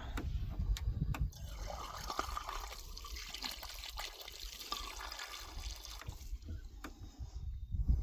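Water trickling and dripping from a bore pump's one-way valve that is leaking a little past its seal, a sign that grit or rust has fallen under the seal, with a few light clicks.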